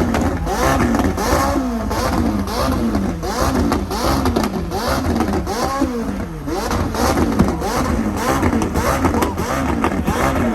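Several car engines revving over and over in quick blips, their pitch rising and falling about once or twice a second and overlapping one another, over a steady low rumble of idling engines.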